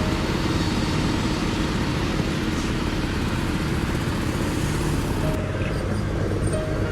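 An excavator's diesel engine running steadily, its note shifting about five seconds in.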